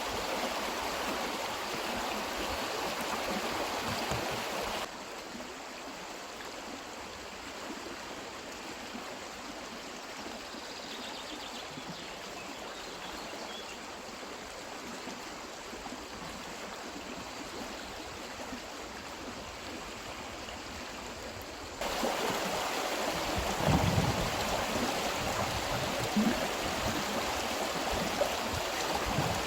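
Spring stream running steadily over its bed. Its loudness drops suddenly about five seconds in and jumps back up near the end, with a few dull thumps soon after.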